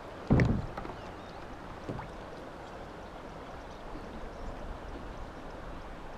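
River water running steadily around a kayak, with a single low thump about a third of a second in.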